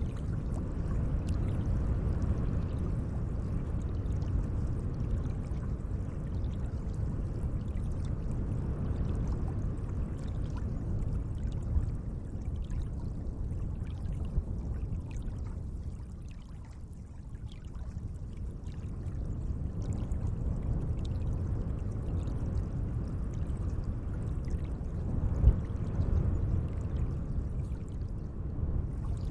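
Water at a lake's edge, a steady low wash of lapping and flowing water with faint small splashes. It eases off for a moment about halfway through, and there is a sharper splash near the end.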